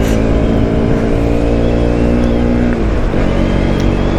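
Motorcycle engine running at a steady speed on the road, with wind rumble on the microphone; the engine note briefly dips about three seconds in, then steadies again.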